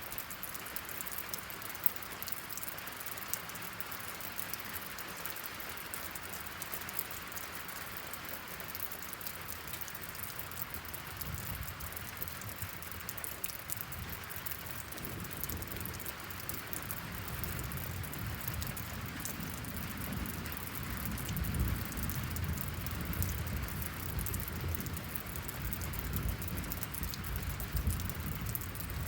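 Steady rain falling, a continuous patter with fine crackling drops. About halfway through, a low rumble swells in beneath it and keeps going.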